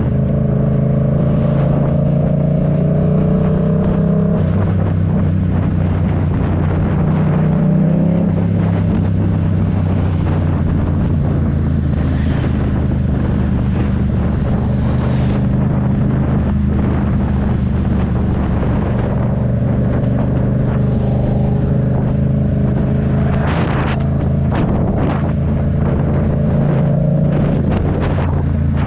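Yamaha MT-07 parallel-twin engine running on the move, holding steady pitches that shift a few times as the speed changes, with wind noise on the microphone.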